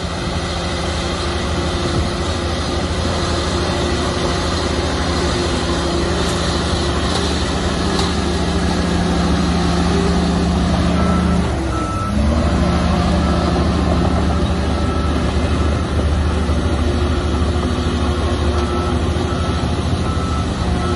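Shantui bulldozer's diesel engine running steadily under load. A little past halfway the engine note dips briefly and climbs back, and from then on a reversing alarm beeps in stretches as the dozer backs up.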